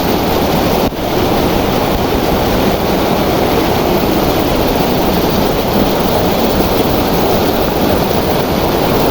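Waterfall: water pouring down in a loud, steady rush, with a momentary break about a second in.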